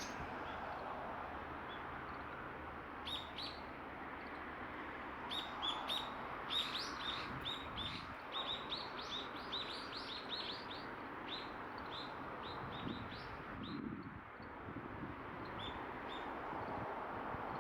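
Oriental greenfinches chirping: runs of short, high, down-slurred call notes. The notes begin a few seconds in, come thickest in the middle and grow sparse toward the end, over a steady background hiss.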